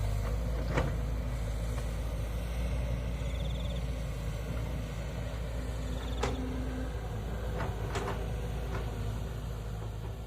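Kobelco SK200 excavator's diesel engine running with a steady low rumble, with a few sharp metallic knocks from the working machine.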